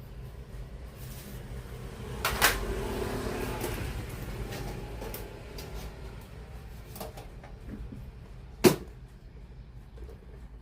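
Two sharp knocks against a steady low hum: one about two and a half seconds in, followed by a second or so of rattling, and a crisper one near the end.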